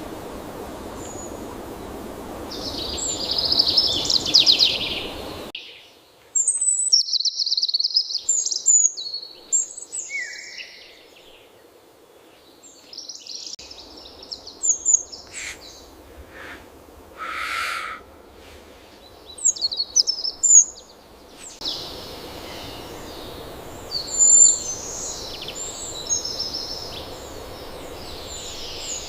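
Wild birds chirping and calling in short, high-pitched phrases over a steady background hiss. The hiss drops out abruptly about five seconds in and comes back near the end, where the calls crowd together.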